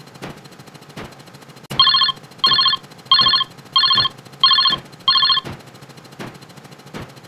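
Telephone ring sound effect: six short trilling rings in quick succession, beginning about two seconds in and ending about two seconds before the close. Faint clicks keep an even beat, roughly one every three-quarters of a second, underneath.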